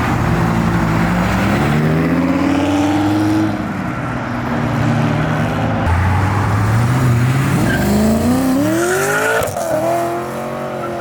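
A boosted (forced-induction) car engine accelerating hard away. Its pitch climbs for about three seconds, drops back at a gear change, then climbs again in the second half.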